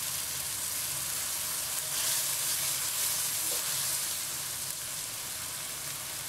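Tomato purée and onion-garlic paste sizzling in hot oil in a non-stick kadai, stirred with a plastic spatula. The sizzle is a steady hiss that eases a little over the last couple of seconds.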